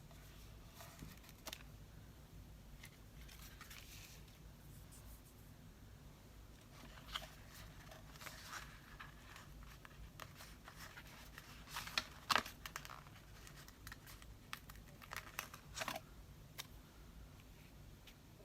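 Paper being handled: faint rustling and crinkling with scattered small clicks and taps, loudest in a short cluster about twelve seconds in.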